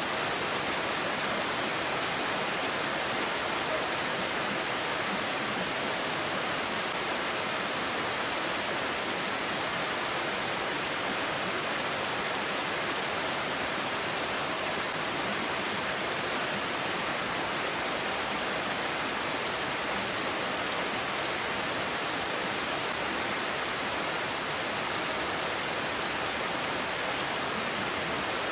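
Steady rain falling, an even, unbroken hiss with no separate drops or gusts standing out.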